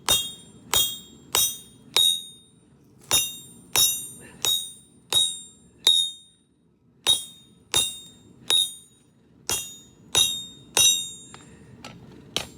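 Hand hammer striking a garden hoe blade on an anvil, about fifteen blows at a steady pace of roughly one every 0.7 s with a short pause midway. Each blow is a sharp, bright ringing clang as the steel is pounded straight.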